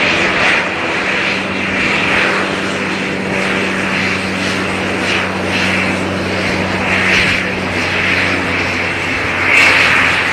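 Aircraft engines running: a steady low hum under a loud rushing hiss that swells and fades every second or so.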